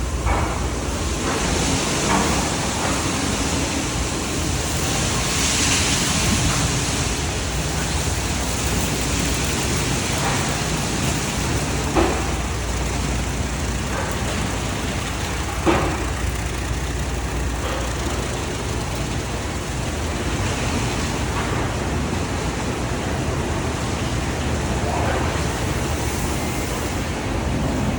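Tunnel car wash running: steady water-spray hiss and machinery noise, swelling briefly with a brighter hiss a few seconds in. Two sharp knocks come partway through.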